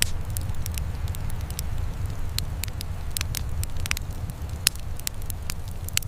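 Wood fire burning in a fireplace, crackling with irregular sharp pops over a low steady rumble; one pop about three quarters of the way in is louder than the rest.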